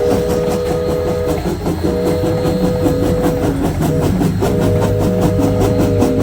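Multi-chime train horn sounding a chord three times, each blast over a second long, over the steady clatter and rumble of a moving train's wheels on rail joints.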